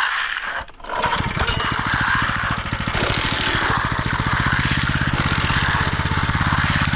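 An engine starts about a second in and settles into a steady idle with an even, rapid firing pulse.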